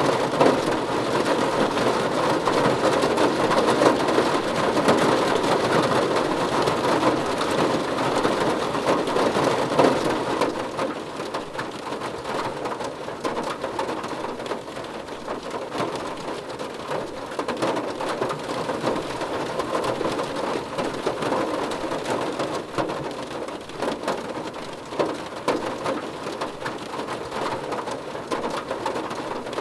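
Steady rain falling, a dense patter of drops on a surface, easing slightly after about ten seconds.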